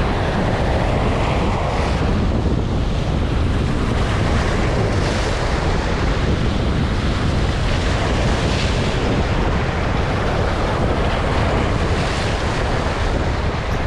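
Strong wind buffeting the microphone, a steady heavy rumble, over the wash of waves against the shore.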